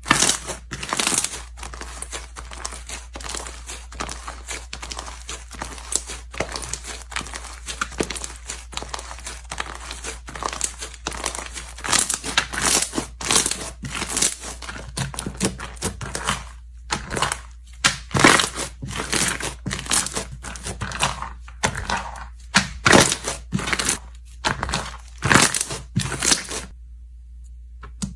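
Slime being squeezed, pressed and pulled apart by hand, giving a dense run of sharp crackles and pops that stop shortly before the end.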